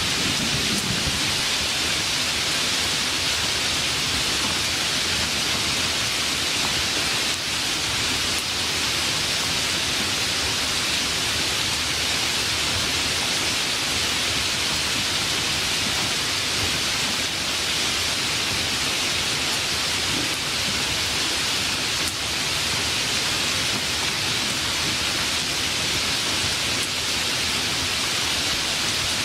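Steady rain falling in a dense, even hiss, with the last of a thunder rumble dying away right at the start.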